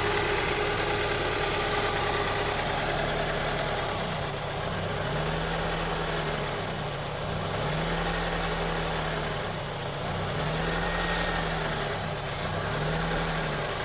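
2002 Honda CR-V's 2.4-litre four-cylinder engine idling roughly, its speed rising and dipping about every two and a half seconds. This hunting idle has not been cured by cleaning the idle air control valve and throttle body; the owner suspects one of those two parts is bad.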